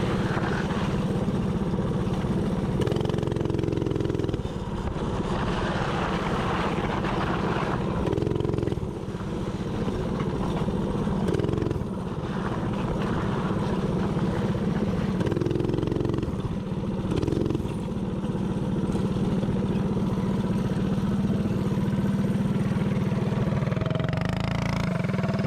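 Mini bike's small engine running steadily while riding. A higher engine note breaks in several times, and the pitch rises near the end.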